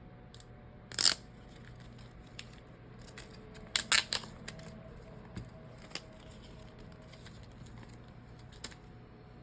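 Sharp clicks and snaps from handling the new phone screen and repair tools: a loud snap about a second in, a quick cluster of clicks around four seconds, and single lighter clicks near six seconds and near the end.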